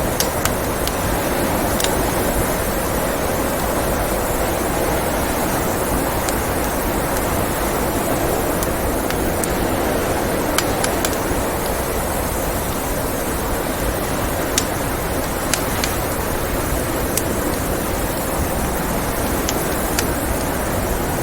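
Steady blizzard wind rushing, with a scattering of sharp, irregular pops and crackles from a wood fire.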